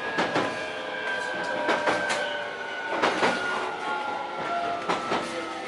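JR Kyushu 817 series electric train braking: a steady whine from its motors falling slowly in pitch, with pairs of clacks as the wheels cross rail joints. This set, VT516, is known for an abnormal noise during braking.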